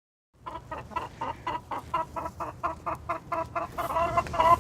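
Chickens clucking in a quick, steady run of short calls, about four or five a second, starting about half a second in and growing a little louder and longer near the end.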